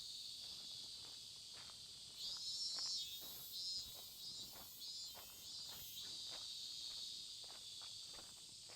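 Insects chirring in a steady high chorus that breaks into pulsing bursts through the middle, over soft footsteps at about two steps a second.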